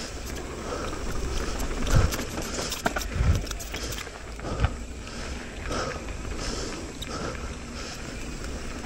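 Mountain bike going down a dirt trail: rolling tyre and rattle noise over a low rumble, with heavy low thumps as the bike hits bumps about two, three and four and a half seconds in.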